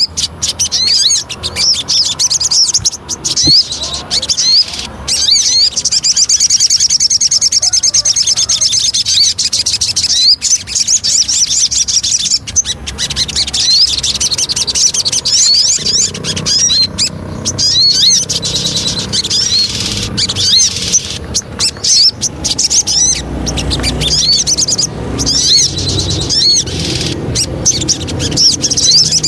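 Sogon songbird singing: long runs of fast, high chirping notes repeated many times a second, with short breaks between phrases. A low rumble sits under the song in the second half.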